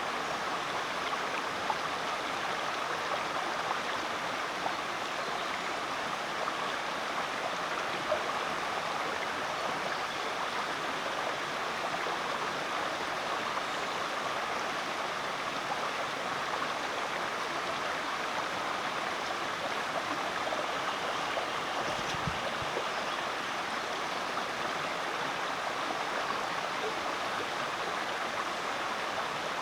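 Rainforest creek flowing steadily over rocks, a continuous rushing and burbling of water.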